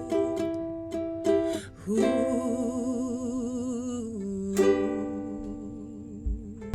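Ukulele song: a few plucked chords, then a voice holds two long notes with vibrato over the ukulele from about two seconds in.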